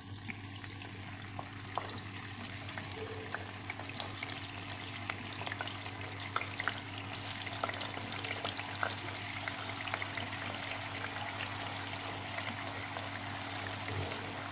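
Tofu slices sizzling and crackling as they fry in hot oil in a nonstick frying pan, with more pieces laid in along the way; the sizzle builds gradually. A steady low hum runs underneath.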